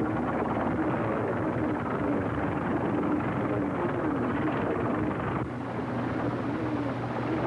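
Motor truck engines running over a worn early sound-film track, with a wavering engine note. About five and a half seconds in the sound shifts and a steady low hum comes in.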